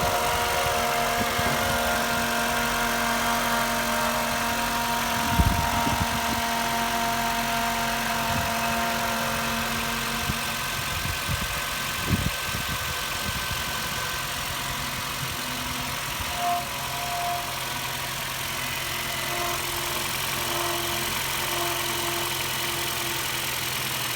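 2007 Honda Fit's four-cylinder engine idling after a cold start, carrying a steady pitched drone of several tones that fades out about halfway through; two short knocks come about 5 and 12 seconds in. The owner can't place the cold-start noise and wonders whether it is a tight idler bearing, since the belt is not squealing.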